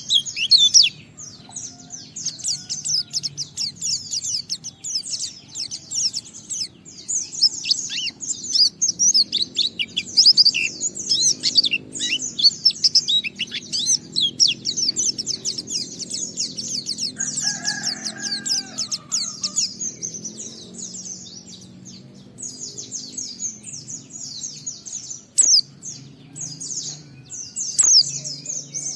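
White-eye (pleci) singing a long, fast, continuous twittering song, the 'ngalas' style, in rapid high notes, easing off for a few seconds past the middle. A short, lower call from another bird cuts in about two-thirds of the way through.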